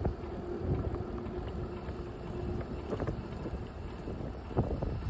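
Bicycle rolling along a path: a rough low rumble with wind on the microphone and a few sharp knocks from bumps. A steady hum runs through the first couple of seconds.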